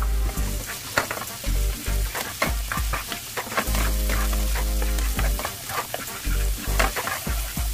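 Shrimp frying in hot oil with garlic and onion, sizzling with many sharp crackles as they are stirred in the pan.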